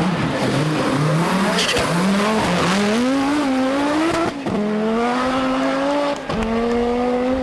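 Group B rally car engine driven hard, the revs rising and falling on and off the throttle, then climbing through the gears with two quick upshifts, each a brief dip and drop in pitch before it pulls up again.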